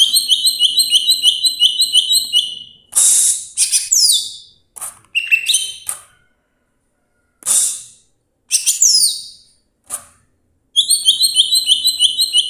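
Cucak ijo (greater green leafbird) singing loudly. Its song opens and closes with a fast run of repeated high chirping notes, about six a second. In between come falling whistled sweeps and short harsh bursts, broken by brief pauses.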